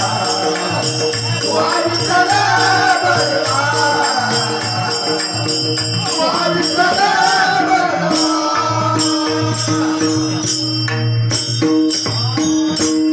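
Marathi devotional bhajan: singing voices over a held drone note, with small hand cymbals keeping a quick, steady beat. The voices drop out about two thirds of the way through, and the cymbals and drone carry on.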